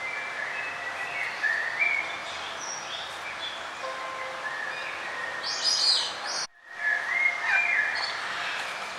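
Songbirds singing, several short whistled chirps and trills overlapping, over a steady background hiss. About six and a half seconds in, the whole sound cuts out for a split second, then the birdsong resumes.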